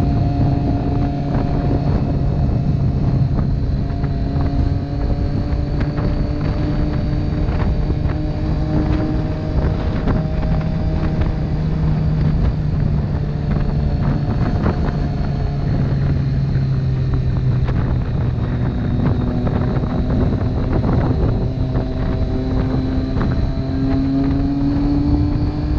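Motorcycle engine running steadily at road speed, its pitch drifting slowly up and down with the throttle, under heavy wind noise on the microphone.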